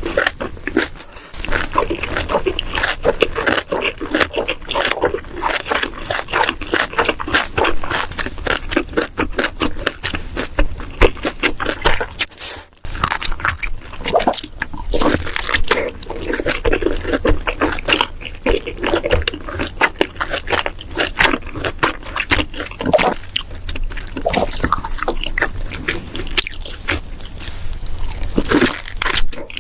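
Close-miked eating sounds: continuous wet chewing with many small clicks and squelches of the mouth, which cut out briefly about halfway through.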